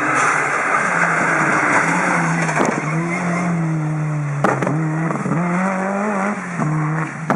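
Rally car engine running hard, its note breaking and stepping with several gear changes. Sharp cracks come about halfway through and at the end, over a hiss of tyre and road noise at the start.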